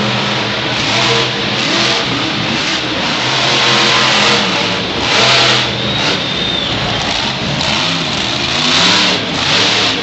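Monster truck engine revving hard, its pitch rising and falling again and again as the throttle is worked during a freestyle run.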